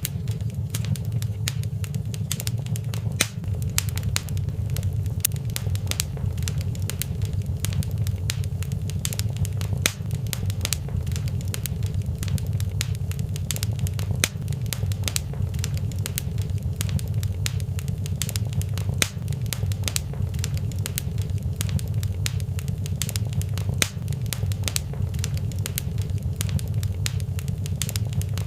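Fireplace wood fire crackling, with frequent irregular sharp pops and snaps over a steady low rumble.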